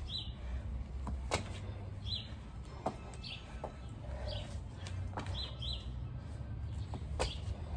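A small bird chirping, short falling chirps about once a second, over a steady low rumble with a few sharp clicks.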